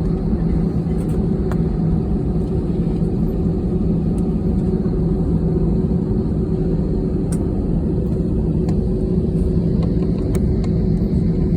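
Steady low rumble and hum in the cabin of a jet airliner on the ground after landing, with a few faint clicks.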